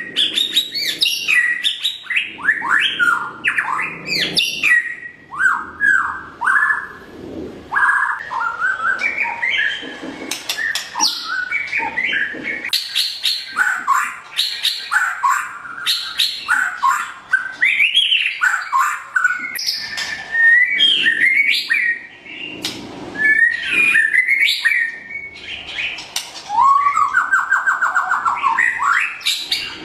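White-rumped shama (murai batu) singing a long, varied song of loud whistles, quick sweeping notes and short chattering phrases. Near the end it gives a rapid buzzy trill.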